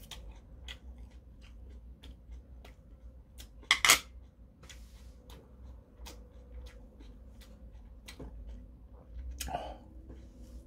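Close-up mouth sounds of a man chewing grilled eel: a steady run of small wet clicks and lip smacks. Just before 4 s comes a short, loud, sharp noisy burst, and a little after 9 s a brief breathy exhale.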